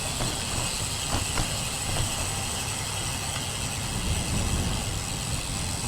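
Wind buffeting the microphone of a GoPro riding along on a moving road bike, a steady rushing noise with a fluctuating low rumble, mixed with tyre and road noise.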